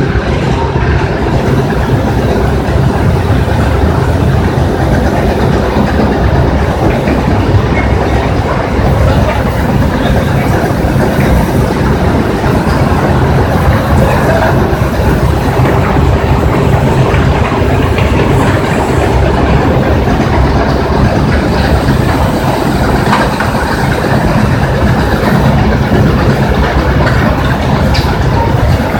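Stone crusher running: a loud, steady mechanical rattle and clatter over a low drone.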